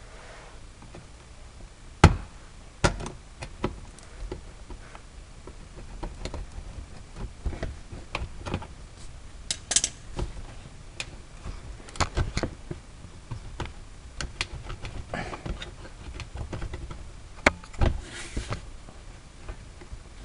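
Scattered clicks and knocks of a tool prying at plastic pop clips on a car's under-panel, with a sharp knock about two seconds in and more clicks spread through the rest.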